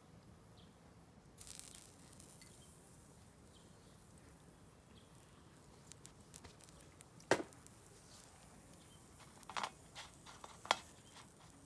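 Quiet background broken by a few sharp clicks, the loudest about seven seconds in and two more near the end, with a brief rustle early in.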